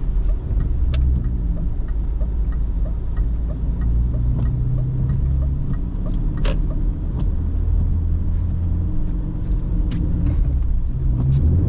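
BMW E39 engine running while the car is driven, heard from inside the cabin: a low drone whose pitch shifts up and down. A run of light ticks, about three a second, sits over it, with a few sharper clicks.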